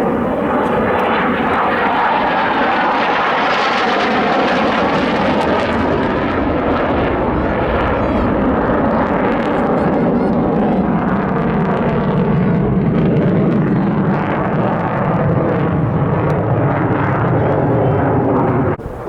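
Aircraft flying past, loud throughout. A high hiss fades after about six seconds while a deeper rumble builds. The sound cuts off suddenly near the end.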